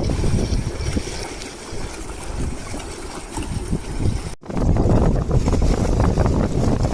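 Wind buffeting the microphone outdoors, an uneven low rumble that cuts out for an instant a little over four seconds in and then comes back louder.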